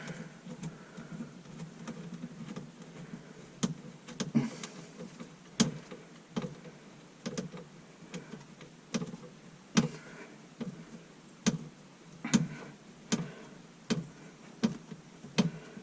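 Irregular sharp clicks and light knocks, about one a second, from hand work on the dishwasher drain hose connection at the garbage disposal, the fitting being worked snug.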